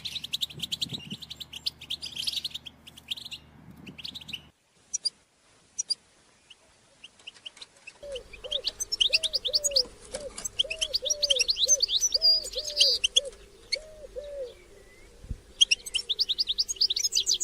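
A group of European goldfinches chattering in fast, twittering call notes. The calls cut out about four seconds in and return after roughly three seconds of near quiet. For several seconds after they return, a lower note repeats about twice a second under the chatter.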